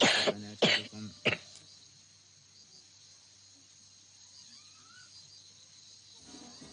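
A child coughing three times in quick succession, each cough shorter than the last, from a serious cough. Crickets chirr faintly and steadily behind.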